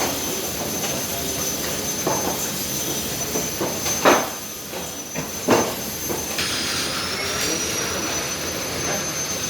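Laminating machine running: a steady whirring with a thin, high, steady whine over it, and a few sharp knocks, the loudest about four and five and a half seconds in.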